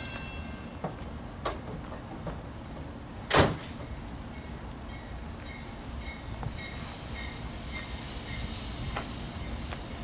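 A single sharp knock about three and a half seconds in, with a few fainter clicks over a steady low rumble.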